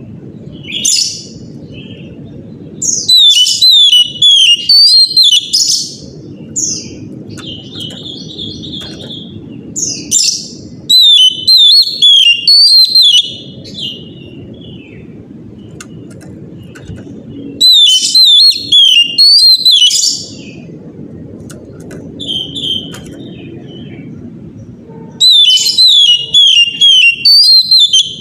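Oriental magpie-robin (kacer) singing in loud bouts of rapid, sliding whistled notes, four bouts of two to three seconds each with short calls between. A low steady hum runs underneath in the pauses.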